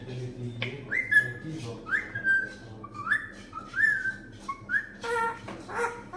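Green parrot whistling: about five short notes, each sweeping up and then holding, roughly one a second, followed near the end by a burst of its voice-like chatter.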